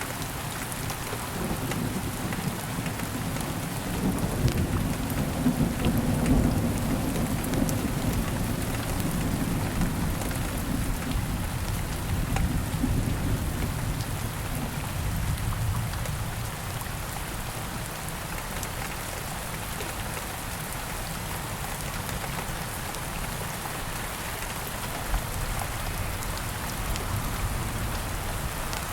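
Steady rain falling, with a long low rumble of thunder swelling through the first half and fading out. A single sharp tick comes near the end.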